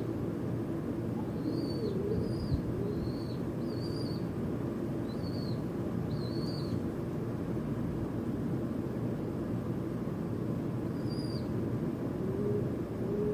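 Birds calling: a run of short, high chirps in the first half, one more about eleven seconds in, and low cooing notes near the end, over a steady low rumble.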